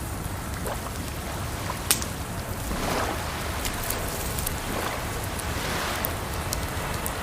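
Wood fire crackling with scattered sharp pops over a steady rush of water, with one loud pop about two seconds in.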